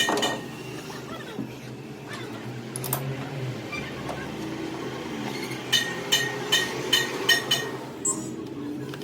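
Light metal-on-metal taps, each with a short bell-like ring: a quick run of about six strikes, roughly three a second, about six seconds in, with fainter clinks and knocks before it.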